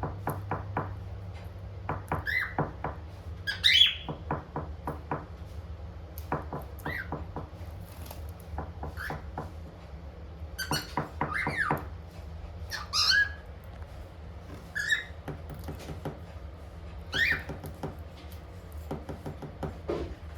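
Cockatiel giving short, sharply rising whistled chirps every second or two, with runs of quick clicks between them over a steady low hum.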